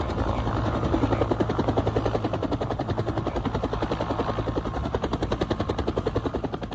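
A helicopter passing over, its rotor beating rapidly and evenly, building up at the start and fading away near the end.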